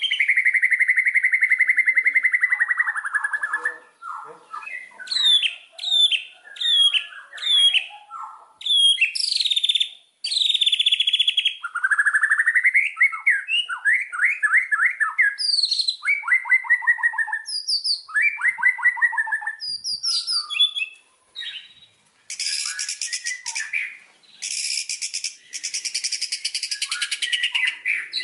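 White-rumped shama (murai batu) singing a long, varied song: a held whistle at the start, then quick rising whistled notes and trills, turning to harsh, buzzy rattling notes in the last third.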